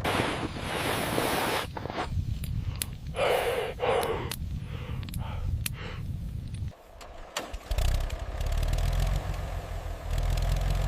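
Large diesel engine running with a heavy, fast-pulsing low rumble that drops out for about a second around seven seconds in. Two bursts of hissing come over it, one at the start and one about three seconds in, along with scattered sharp knocks.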